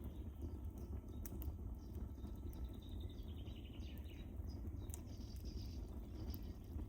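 Wood fire burning in a fireplace: a steady low rumble with scattered sharp crackles and pops. A faint high, falling trill comes about halfway through.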